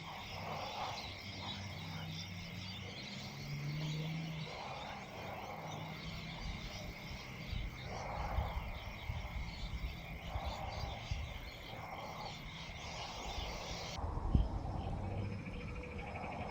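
Short rasping animal calls repeating every second or two, over a steady thin high tone that cuts off suddenly near the end and a low rumble.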